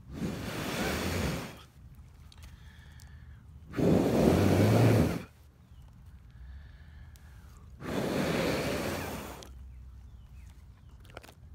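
A person blowing hard on smouldering campfire embers to rekindle the flame: three long, breathy blows about four seconds apart, the middle one the loudest.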